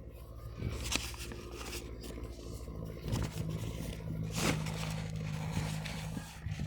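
An engine running steadily under scraping and clicking handling noises; a louder steady tone joins the hum about three seconds in.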